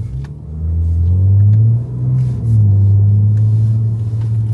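BMW S58 twin-turbo inline-six in a G80 M3, breathing through catless downpipes and an equal-length X-pipe titanium catback with the valves closed, heard from inside the cabin. A low exhaust drone rises in pitch under light throttle, breaks off briefly a little before halfway, then settles into a steady, lower drone.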